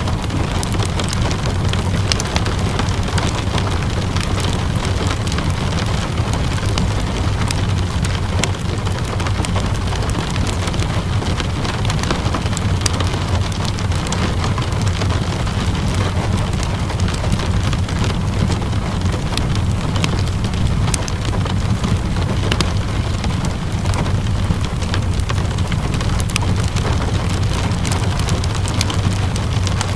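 Steady rainfall mixed with the scattered crackles and pops of a wood fire, over a constant low rumble.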